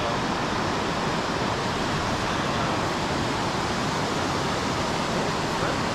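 Steady rushing of creek water, an even hiss and rumble with no break.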